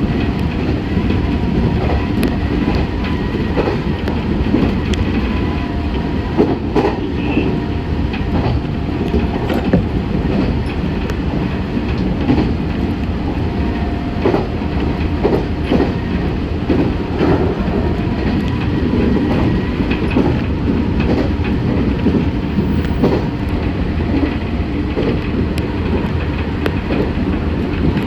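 Meitetsu 6500 series electric train running at speed, heard from inside the car: a steady rumble with frequent clicks of the wheels over rail joints, and a faint steady hum.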